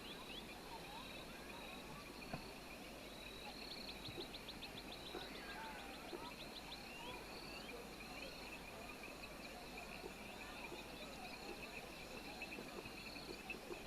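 Rural outdoor ambience: insects trilling steadily, with a rapid run of high chirps about four seconds in and scattered bird calls throughout.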